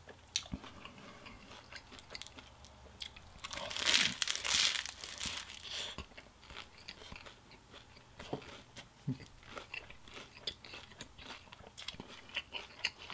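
Close-up mouth sounds of chewing a lettuce-wrapped fried Vietnamese egg roll: steady small crunches and wet chewing clicks, with a louder, denser crunching stretch from about three and a half to six seconds in.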